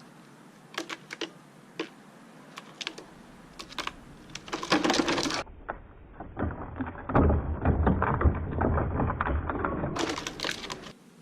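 Irregular clicking and clattering of small hard objects being handled and tapped. About five and a half seconds in it turns into a denser, duller clatter for several seconds, then sharper clicks come back near the end.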